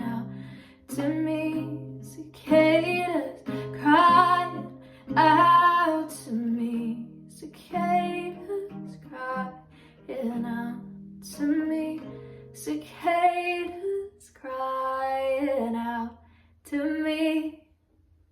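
Female voice singing a drawn-out melody over plucked acoustic guitar, stopping shortly before the end.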